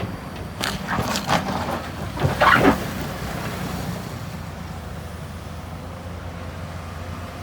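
Diesel engine of heavy earthmoving equipment running steadily, with a run of loud clattering and scraping bursts from about half a second to nearly three seconds in, the loudest near the end of that run. The clatter is typical of rock and soil being worked by a bucket or blade.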